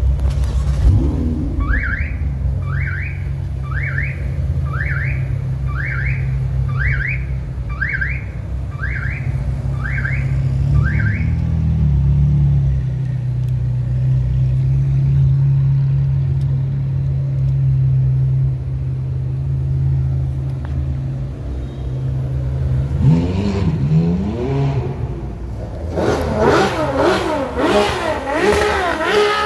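Ferrari sports car engines idling with a steady low rumble, then revved in several rising and falling blips near the end. About two seconds in, a rising electronic chirp repeats about once a second, ten times.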